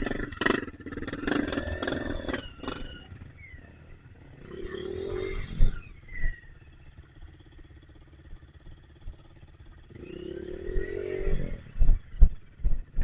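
Trail motorcycle engine revving in two short bursts several seconds apart, with sharp knocks and clatter in the first few seconds and again near the end.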